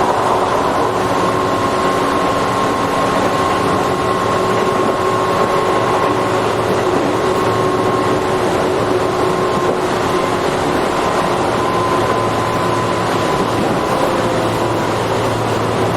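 Tobu 8000 series electric commuter train running at a steady speed between stations: a continuous rumble of wheels on rail with a held whine from the traction motors and gears.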